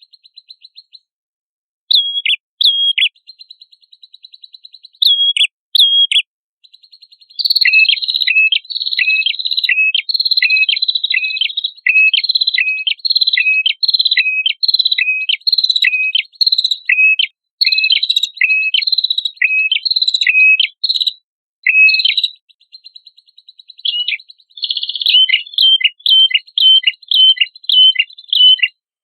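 Prenjak kepala merah singing: a run of sharp, falling whistled notes, about two a second, over a thin, rapid buzzy trill, with short breaks early on and a near-continuous stream from about seven seconds in.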